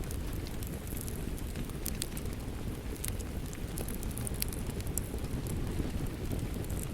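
Wood fire crackling, with sharp pops scattered through it, over a steady low rush of rain.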